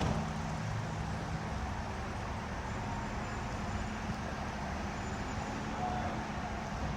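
A car engine idling steadily, over a steady hiss.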